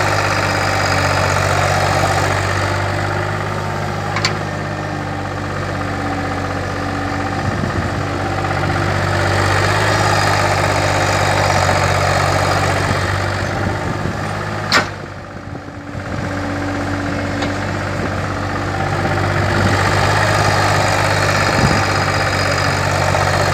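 Kobelco excavator's diesel engine running steadily, its sound swelling and easing every few seconds as the machine works. A sharp clank comes about 15 seconds in, with a fainter click about 4 seconds in.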